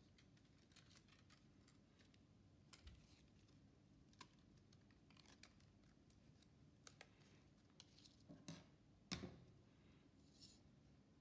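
Near silence with faint, scattered clicks and scratches of small objects being handled; the loudest is a sharp click about nine seconds in.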